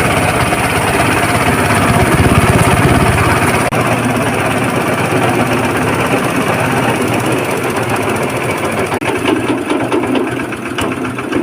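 Small stone-and-gravel pulverizing machine running steadily, with a fast, even pulsing, a little quieter near the end.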